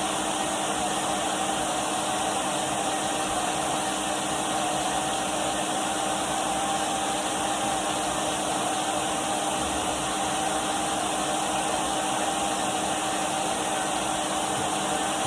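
Numatic Henry vacuum cleaner motor running steadily: an even rushing hiss with a steady mid-pitched whine that does not change.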